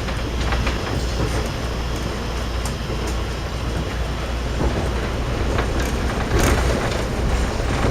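KiHa 52 diesel railcar running along the line: a steady engine and wheel rumble with scattered sharp clicks from the track, one louder click about six and a half seconds in.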